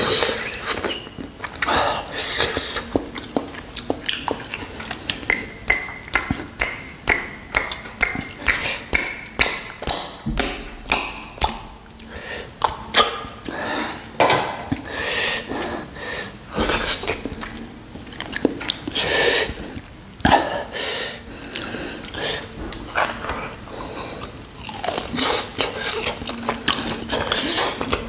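A man chewing spicy mutton nalli fry (shank meat on the bone) close to the microphone: a quick, irregular run of smacking mouth sounds.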